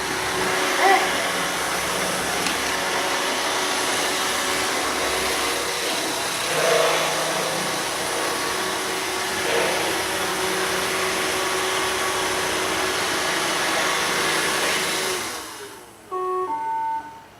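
Robot vacuum cleaner running with a steady whir and hum, fading out about three-quarters of the way through. A few short stepped electronic tones follow near the end.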